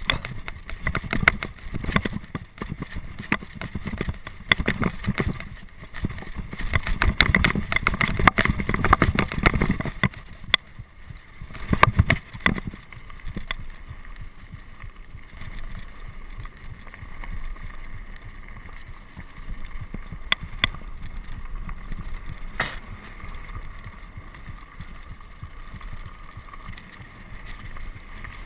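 Irregular rattling and knocking with a low rumble, heavy for about the first twelve seconds and then lighter with a few sharp clicks: a mountain bike running over rough ground.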